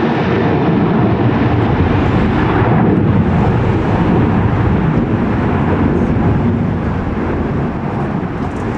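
Jet airliner engines, a loud steady rush that eases slightly near the end, mixed with strong wind buffeting the microphone.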